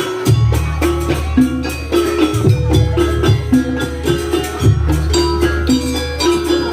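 Live traditional Banyuwangi music accompanying a barong dance: pitched percussion and drums playing a steady repeating pattern, with a deep low note coming in shortly after the start.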